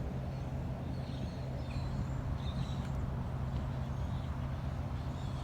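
Steady low hum, like distant traffic, with short faint high chirps scattered through.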